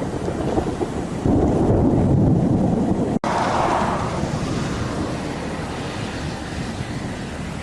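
Wind buffeting the microphone with a low rumble, loudest from about one to three seconds in. A brief dropout about three seconds in breaks the sound, and a steadier hiss follows.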